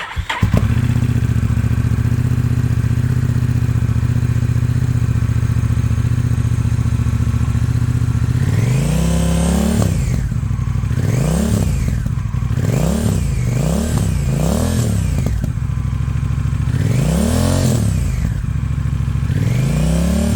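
Honda Rebel 1100 DCT's parallel-twin engine breathing through an aftermarket Vance & Hines muffler: it idles steadily, then from about halfway is blipped repeatedly, the revs rising and falling in a string of short throttle stabs, with a few more near the end.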